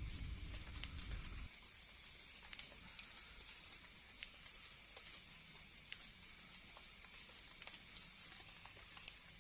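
A low rumble that cuts off abruptly about a second and a half in, then a faint night-time forest background with scattered small ticks and clicks over a steady high hiss.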